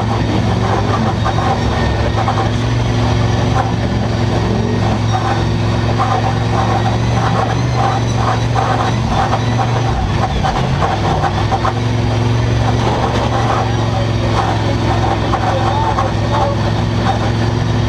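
Demolition derby cars' engines running hard, several of them revving with repeated rising pitch over a steady low engine drone.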